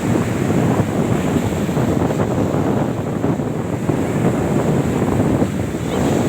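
Strong wind blowing across the microphone, a steady, dense low noise.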